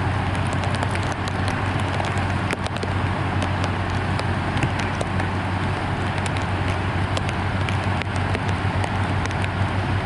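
Steady rushing noise of fast-flowing floodwater, with scattered crackles and a constant low rumble underneath.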